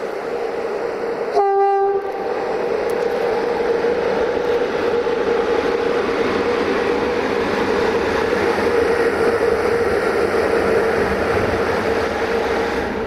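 A train horn gives one short blast about a second and a half in, then a train runs past with a loud steady rumble and a constant hum, easing off slightly near the end.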